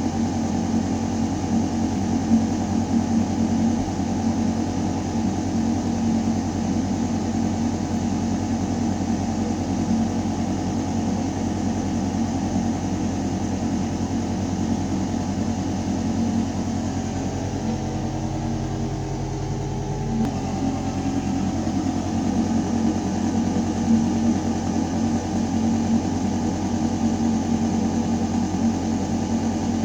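A building ventilation system running with a steady, deep mechanical hum as air moves through metal ductwork. Its tone shifts for a few seconds about two-thirds of the way through, then settles back to the same hum.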